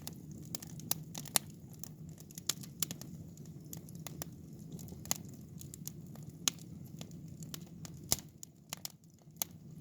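Firewood burning in a wood-fired fire pit under a cast-iron cauldron, crackling and popping with irregular sharp snaps over a low steady rumble.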